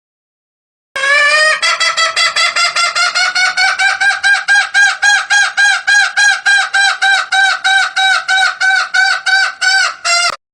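Junglefowl giving a rapid, steady series of short clucking notes, about four to five a second, played as a lure call. It starts suddenly about a second in and cuts off abruptly near the end.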